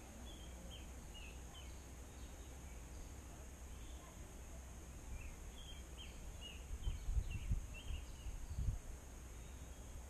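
Faint outdoor background with a small bird's short chirps, two runs of quick chirps, the second longer. A few low thumps of handling noise on the microphone in the second half are the loudest sounds.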